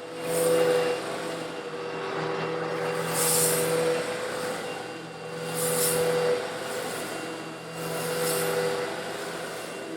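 Old Eureka vacuum cleaner running steadily while sucking up coarse stone granules slightly larger than sand. Surges of grains hiss and rattle up through the nozzle and hose about every two to three seconds over the motor's whine.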